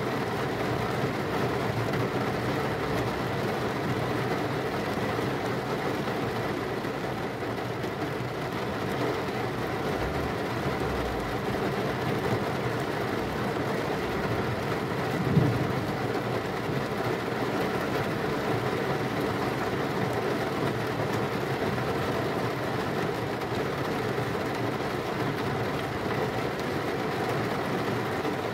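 Heavy rain falling steadily, with one brief sharp crack about halfway through.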